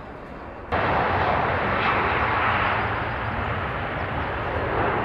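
Jet airliner engine noise, a loud steady rushing sound that starts abruptly about a second in.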